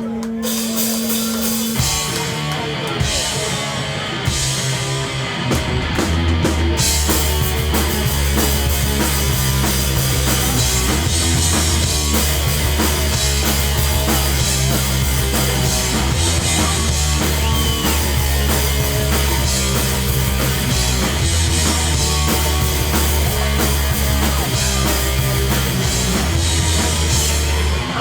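Hardcore punk band playing live on electric guitar, bass and drum kit. It opens on a held note with drum hits, and the full band comes in hard about six seconds in and plays on loudly.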